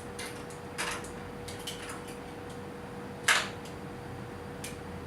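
Electrical cable being stripped by hand: a few light clicks and scrapes, the sharpest about three seconds in, over a faint steady hum.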